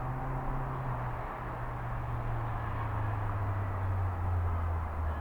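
A low engine hum, falling slowly in pitch and getting a little louder toward the end, over a steady background rush.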